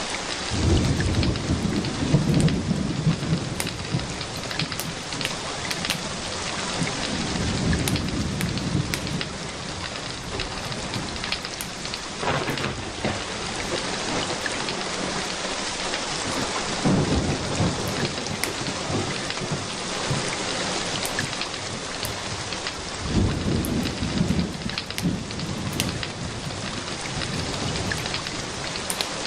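Steady rain falling, with several low rolls of thunder that swell and fade.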